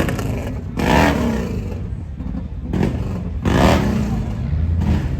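Car engines running, with a steady low rumble and two louder surges, about a second in and again past the middle, like revs.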